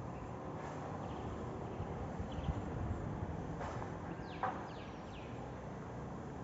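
Faint bird chirps, a few quick falling high notes about four to five seconds in, over a steady low background rumble, with a couple of light clicks.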